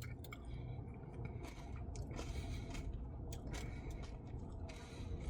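Faint eating sounds from a mouthful of Caramel Java Chip Blizzard ice cream: soft chewing and wet mouth noises with scattered small clicks.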